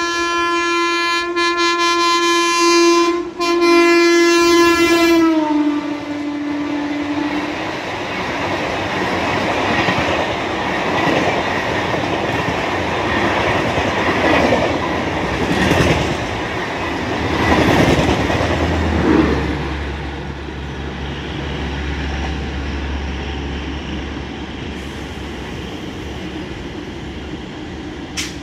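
A WAP-4 electric locomotive's horn sounds continuously for about five seconds, dropping in pitch as the locomotive passes at speed. The express's coaches then rush past with wheels clattering over the rail joints. Later a low steady hum sets in under the fading train noise.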